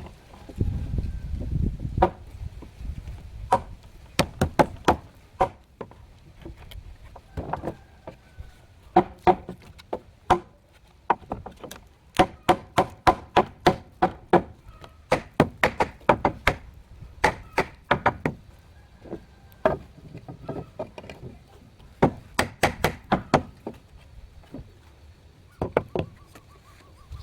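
Repeated chopping strikes in quick runs of about four a second, broken by short pauses, each strike sharp with a brief ring.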